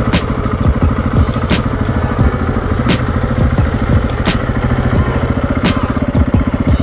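An engine running steadily at a constant speed, with sharp clacks recurring about every two thirds of a second.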